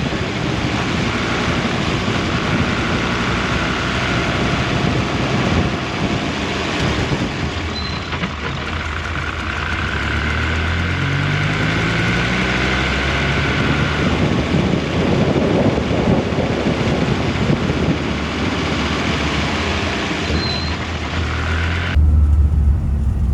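Dodge Viper V10 race engine and road noise heard from inside the cabin while driving, the engine note rising as it picks up speed about halfway through. Near the end the sound changes abruptly to a louder, deeper rumble.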